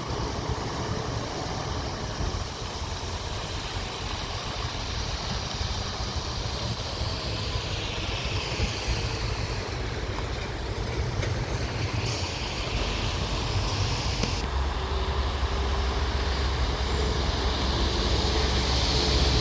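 Heavy truck engine running with a steady low rumble that grows louder in the last few seconds. About twelve seconds in there is a hiss lasting a couple of seconds.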